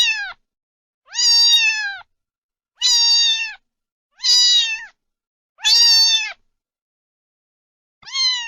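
A cat meowing over and over, about one meow every second and a half, each a high, clear call that holds its pitch and then drops at the end, with a longer pause before the last one.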